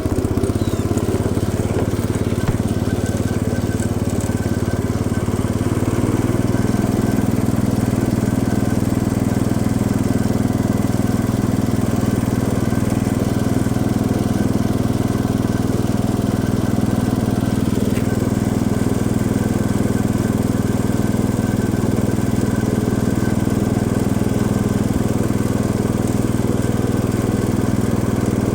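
1971 Cub Cadet 106 garden tractor's single-cylinder Kohler engine running steadily, its note shifting slightly about six seconds in.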